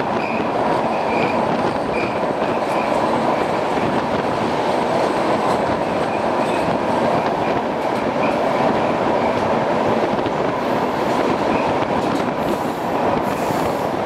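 Passenger train running at speed through a rail tunnel: a loud, steady rumble of wheels on rails, with a faint squeal that recurs about twice a second. The sound thins and turns hissier near the end as the train comes out of the tunnel.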